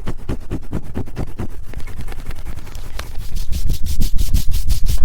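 Fast, rhythmic rubbing strokes right on a TASCAM recorder's microphones, about nine a second. The strokes grow louder about three and a half seconds in.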